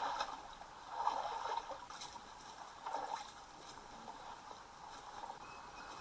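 Faint water sloshing and trickling, in a few soft swells about a second apart.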